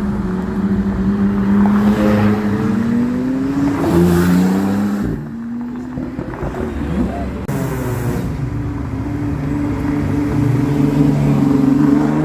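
Sports car engine revving as the car drives off. Its pitch climbs over the first few seconds, drops about four to five seconds in, then holds at a steady, higher note.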